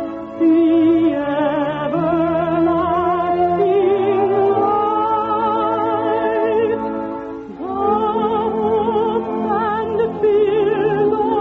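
Singing with vibrato over a sustained orchestral accompaniment, in long held notes, with a brief dip in loudness about seven seconds in. The old recording is muffled, with no high treble.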